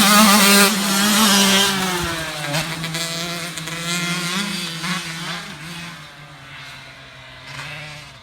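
Dirt bike engine revving hard close by, its pitch rising and falling with the throttle, then growing steadily fainter as the bike rides away.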